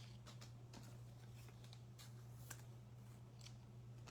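Faint, scattered clicks and light scrapes of trading cards being handled, over a steady low hum.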